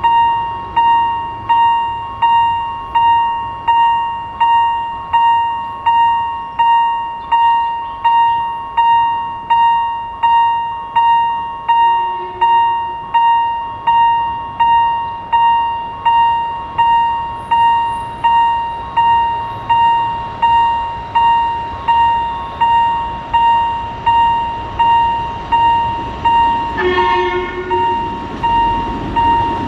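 Railway level crossing warning bell ringing steadily at about two dings a second. A train horn sounds faintly about 12 seconds in and again, louder and briefly, near the end, as the rumble of the approaching train builds.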